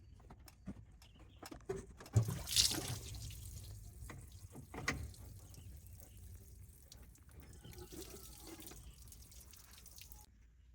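Water running and splashing, with scattered knocks and clatter of metal parts being handled in it. The flow cuts off suddenly near the end.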